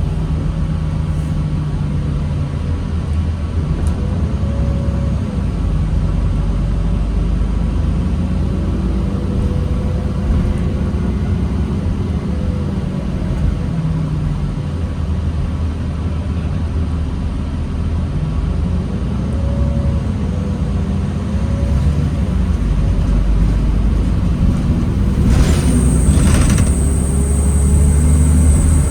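Low steady rumble of a 2009 New Flyer D40LFR diesel transit bus creeping in stop-and-go traffic, with a faint drivetrain whine that rises and falls in pitch as it pulls away and slows. Near the end a high-pitched whine comes in, with a couple of sharp clicks.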